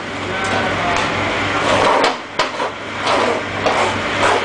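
Brick-making machine running: a steady motor hum under irregular clattering and knocking from the press.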